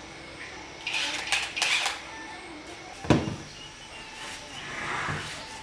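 Clinking and clattering of small hard objects being handled, with a sharp knock about three seconds in.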